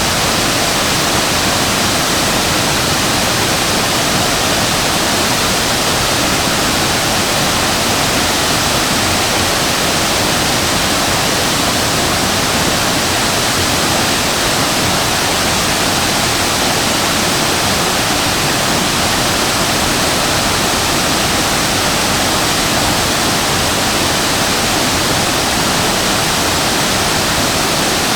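Waterfall pouring steadily, a dense, unbroken rush of falling water.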